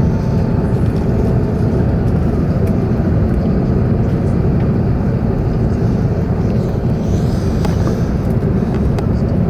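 Steady cabin noise aboard an Airbus A380 on approach: a constant low rumble of engines and airflow heard from the upper deck.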